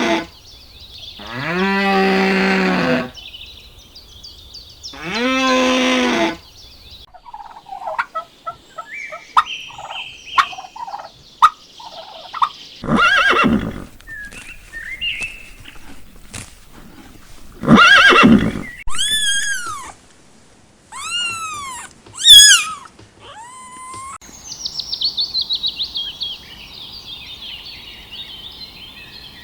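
A run of farm animal calls. It opens with three long calls, each about a second and a half, then shorter scattered calls, two loud harsh calls, a string of arched, bird-like calls, and a fast trilling call near the end.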